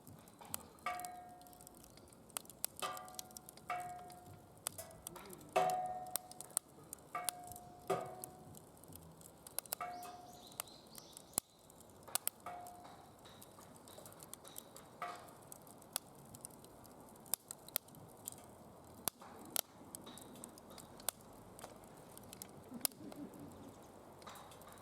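Wood fire crackling in a DOD Mecha Moe Fire secondary-combustion fire pit, with sharp snaps and pops throughout. Over roughly the first fifteen seconds a short ringing note of one pitch sounds about ten times, each fading quickly.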